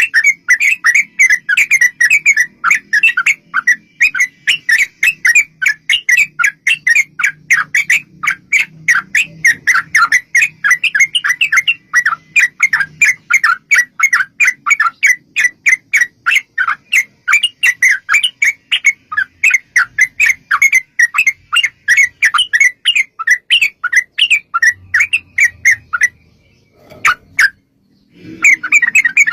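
Yellow-vented bulbul's rapid chattering song: a long unbroken run of short, quickly repeated notes, several a second. The run breaks off about 26 seconds in and starts again near the end.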